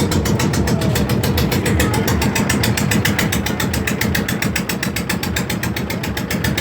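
Boat engine running steadily at close range, a low rumble with a fast, even beat.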